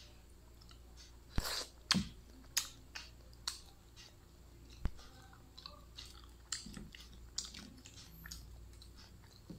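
Close-up eating sounds of balut, a boiled fertilized duck egg: chewing with irregular sharp wet clicks, mixed with crackles of the eggshell being peeled.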